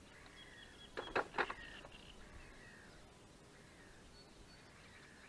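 Faint birdsong, short whistled phrases and trills, with three quick sharp clicks about a second in.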